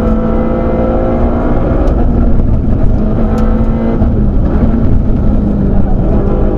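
Citroën Saxo rally car's 1.6-litre four-cylinder engine running hard at high revs, heard from inside the cabin. The engine note dips briefly about four seconds in, then picks up again.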